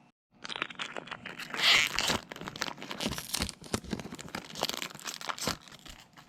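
Foil wrapper of a Pokémon Crimson Invasion booster pack being torn open and crinkled in the hands: a dense plastic crackle, loudest about a second and a half in.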